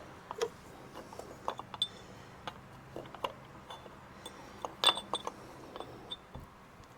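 Light clinks and taps of small metal parts and tools being handled, some with a brief metallic ring; the loudest comes about five seconds in.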